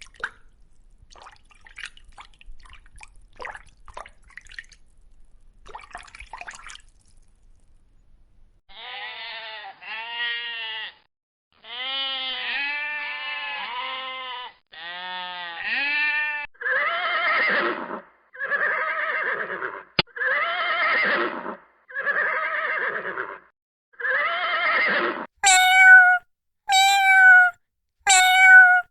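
Faint water drips and splashes, then goats bleating over and over in calls of about a second each: first higher, wavering bleats, then louder, harsher ones. Near the end a cat starts meowing in short repeated calls.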